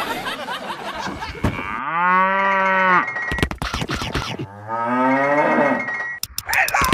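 Cow mooing twice: a steady moo about two seconds in, then a longer moo after a short gap that rises in pitch.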